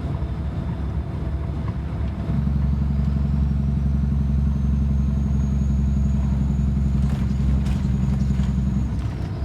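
Road noise inside a moving vehicle's cab: engine and tyre rumble that becomes a louder, steady low hum about two seconds in and drops back shortly before the end.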